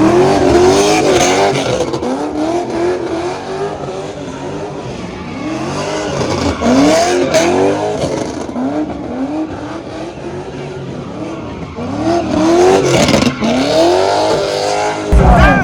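Car engine revving hard in repeated rising and falling sweeps, with tire squeal, as a car spins or does a burnout. Music begins near the end.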